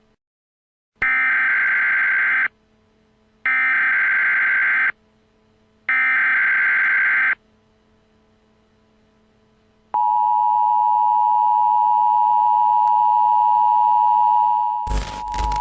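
Emergency Alert System signal: three warbling data bursts of the header code, then the long, steady two-tone attention signal for about five seconds, cut off near the end by a sudden loud hit.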